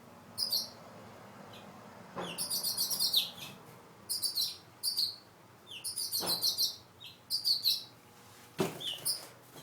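A group of small birds chirping excitedly in quick trains of high, rapid calls that come in bursts about every second, agitated around their nests.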